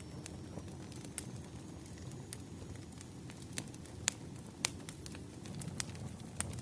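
Campfire burning: a steady low rumble of flames with sharp wood crackles and pops at irregular intervals, a few louder snaps among them.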